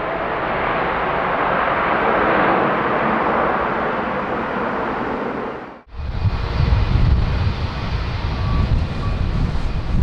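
Jet engine noise from a Boeing 787-9's Rolls-Royce Trent 1000 engines, a steady broad rush. About six seconds in it cuts off abruptly and gives way to gusty wind buffeting the microphone over fainter engine noise with a light whine.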